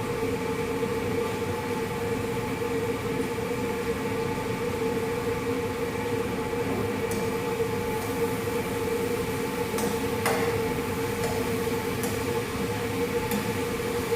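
Steady machine hum with a strong droning tone and low rumble, and a few faint clicks in the second half.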